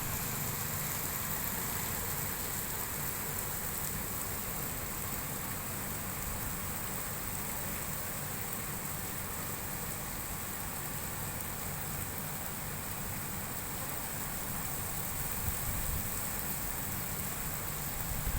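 Heavy rain falling steadily, a constant even hiss of a downpour.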